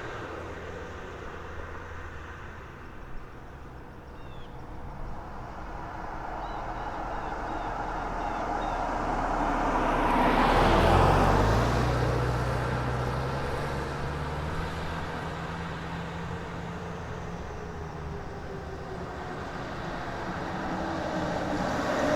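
A motor vehicle's engine running, growing louder to a peak about eleven seconds in and then easing off, as if passing by, before building again near the end.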